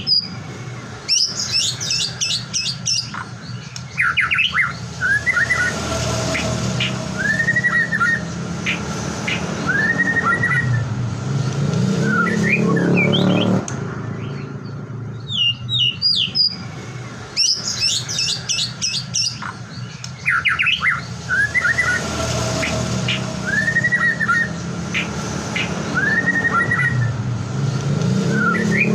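White-rumped shama (murai batu) singing: bursts of rapid high chattering notes, then a run of clear arching whistles. The same sequence plays twice, repeating about every 15 seconds as a looped lure recording meant to set other shamas singing, over a steady low hum.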